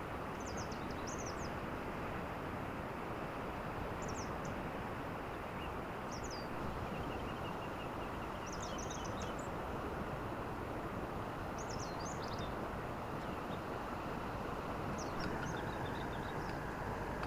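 Steady outdoor rushing noise with short high bird chirps, a quick cluster every three to four seconds, and a brief run of faint fast ticks partway through.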